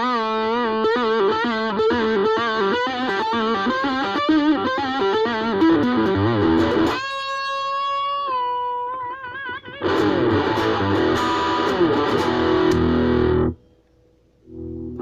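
Ibanez AXS42 electric guitar, rewired with solid-core vintage wire, played through an amplifier: a lead line with finger vibrato, then a long held note with a wide vibrato. Fuller chords follow that are cut off sharply, and after a brief silence the playing starts again near the end.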